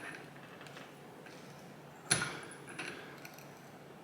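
Metal parts being handled during motorcycle fork reassembly: one sharp clack about two seconds in, then a few lighter clicks.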